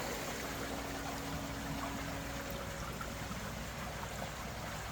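Water of a small stream running steadily, a continuous even rush.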